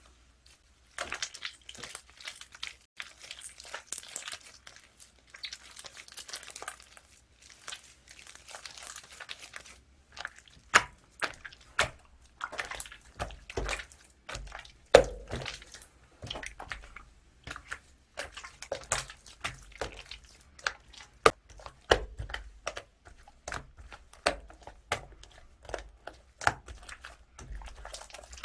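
Hands playing with a blue ice-cream-textured slime: a dense crackly crinkling for the first ten seconds or so, then a long string of sharp pops and clicks as the slime is pressed and stretched.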